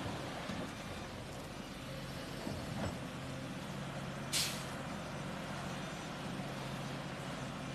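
Truck engine running steadily, with one short, sharp hiss of air-brake air about four and a half seconds in.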